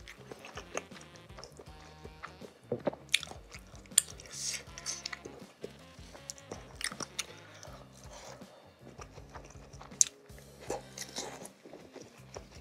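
Close-miked eating: chewing and biting into cilok, chewy tapioca-flour dumplings in a thin spicy sambal, with scattered sharp mouth clicks. Quiet background music runs underneath.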